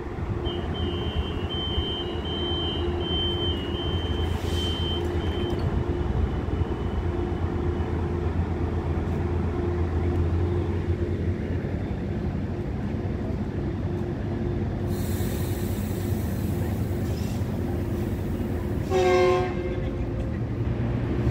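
Metrolink commuter train at the platform, its diesel running with a steady low rumble under a pulsing tone. High electronic two-pitch beeping sounds for the first several seconds, a burst of air hiss comes about fifteen seconds in, and one short horn toot near the end is the loudest sound.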